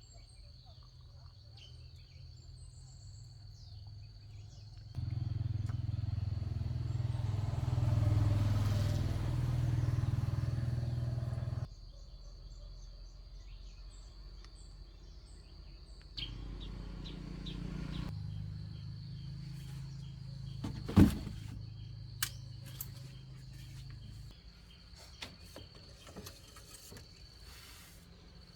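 A motor running with a low hum that starts and stops abruptly twice, and a sharp knock about two-thirds of the way through.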